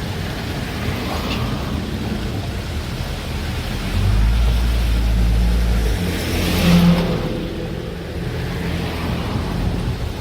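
Large diesel engine of heavy earthmoving machinery running with a low, steady rumble; it grows louder for about two seconds starting about four seconds in, as if working under load, and a short hissing swell comes just before the seventh second.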